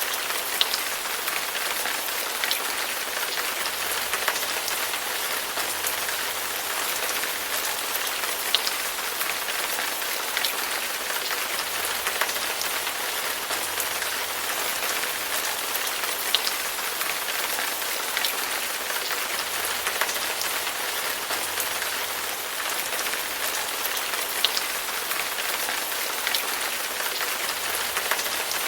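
Steady rain falling: an even hiss of rain on a surface, with single louder drops ticking every couple of seconds.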